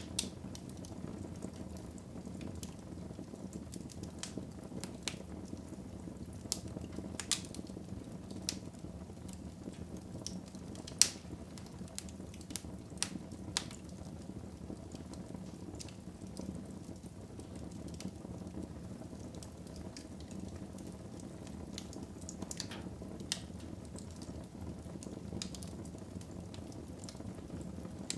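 Wood fire burning in a fireplace: a steady low rush of flame noise with irregular sharp crackles and pops from the burning logs. The loudest pop comes about eleven seconds in.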